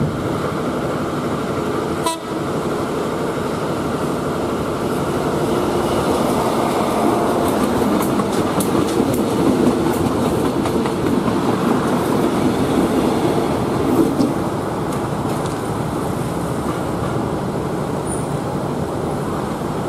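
KAI green-and-white commuter train passing close by: a steady rumble of wheels on the rails with scattered rail-joint clicks, louder around the middle as the cars go past.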